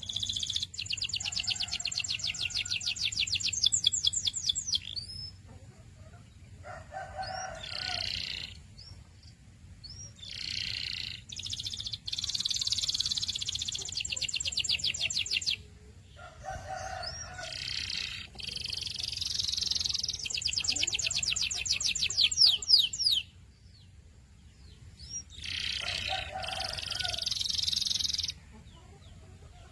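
Domestic canary singing: four long song phrases of very fast rolling trills, each of several seconds, separated by short pauses and brief lower notes.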